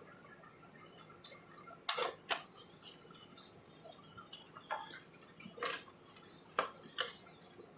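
Light, sharp clicks and taps of small tools and phone parts being handled during a phone screen replacement, about eight scattered clicks with the loudest pair about two seconds in.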